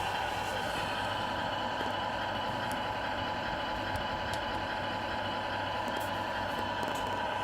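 Radio-controlled Scania R470 model truck running steadily, a constant hum with a whine that neither rises nor falls.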